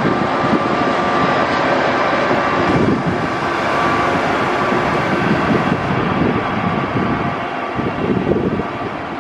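Trenitalia passenger train with an E.414 electric locomotive passing close on the adjacent track: a steady rumble and clatter of wheels on rails, easing slightly near the end as the locomotive pulls away.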